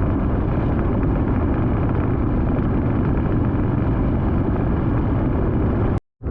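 Motorbike engine running under way, mixed with steady wind rush on the microphone. The sound drops out abruptly for a moment near the end.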